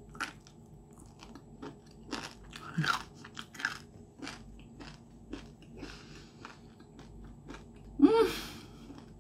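Close-up crunchy chewing of breaded, air-fried chicken cartilage bites: many irregular sharp crunches. Near the end comes a short pitched 'mmm' of enjoyment from the eater, the loudest sound.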